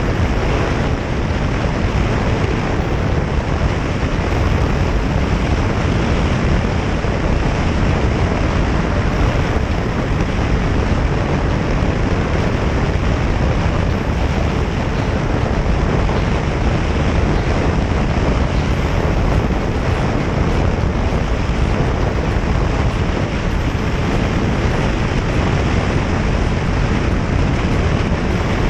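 Steady wind rush on the microphone of a moving motorcycle, with road noise beneath.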